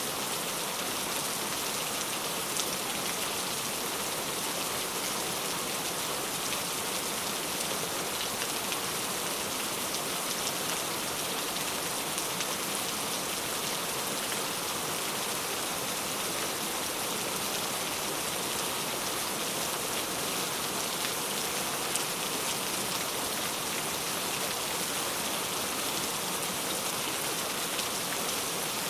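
Heavy rain falling steadily, a constant hiss with scattered individual drop ticks.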